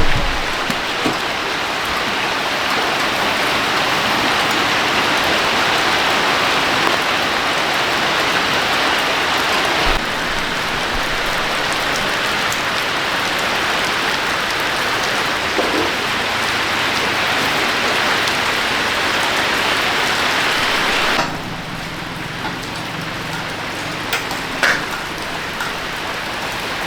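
Steady rushing spray of water hitting a surface, which cuts down suddenly about 21 seconds in to a quieter hiss with a low hum.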